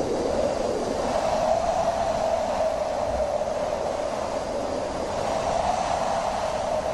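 Wind blowing steadily, a rushing noise with a hollow tone that slowly wavers up and down in pitch.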